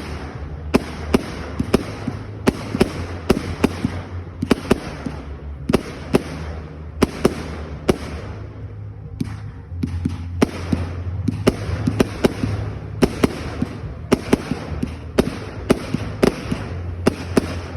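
Fireworks going off: a rapid, irregular string of sharp bangs and cracks, often two or three a second, over a continuous crackling hiss and a low rumble.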